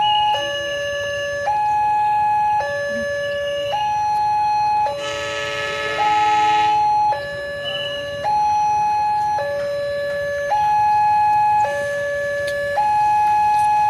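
Railway level-crossing warning alarm sounding continuously, switching between a low and a higher tone about every second. About five seconds in, a train horn blows for about two seconds.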